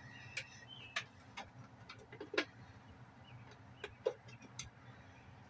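Scattered light clicks and knocks, irregularly spaced, of a screwdriver and parts being handled while an air filter housing is opened for a check, over a faint low hum.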